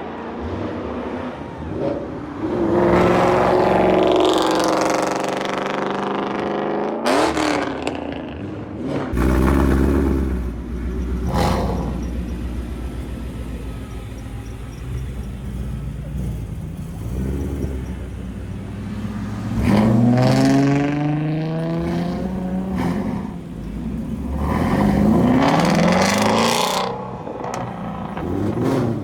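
Ford Mustang engines revving hard, climbing in pitch again and again over a steady low rumble, with a few sharp cracks in between.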